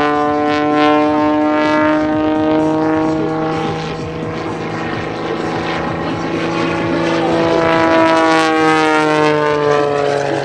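Propeller-driven airplane engine flying past, its pitch falling as it goes by. A second pass follows near the end, the note rising and then dropping again.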